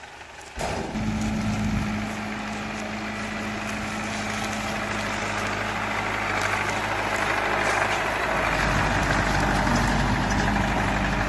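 Tractor engine running steadily with the corn harvester it drives, starting abruptly about half a second in; a broad rushing machinery noise grows louder through the second half.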